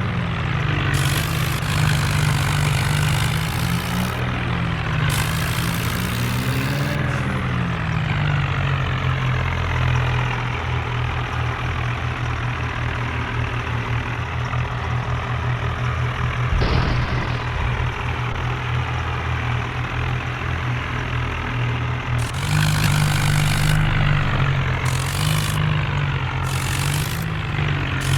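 Tractor engine running hard, its revs swelling and dipping in the first few seconds, settling steadier through the middle, then rising louder again near the end.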